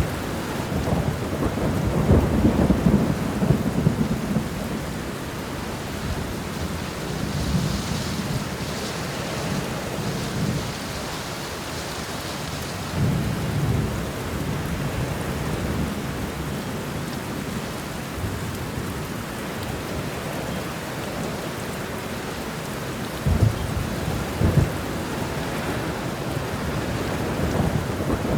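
Thunderstorm: steady heavy rain hiss with low rolls of thunder swelling up several times, the strongest at the start and in a couple of cracks a little before the end.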